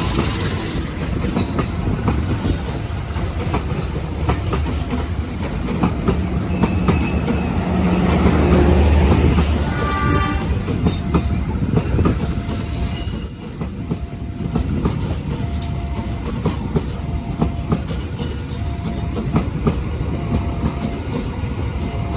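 Passenger train passing close by: a heavy rumble with the wheels clicking over the rail joints, loudest about eight to nine seconds in. In the second half a short tone repeats about once a second.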